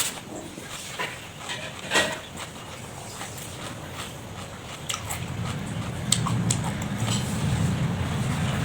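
A person chewing and smacking on food close to the microphone, with scattered short wet clicks. A low rumble builds from about halfway through.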